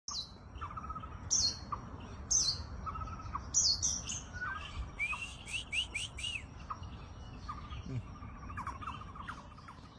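White-rumped shama (murai batu) singing: high whistled notes that sweep downward, repeated about once a second, then a quick run of arched notes about halfway through.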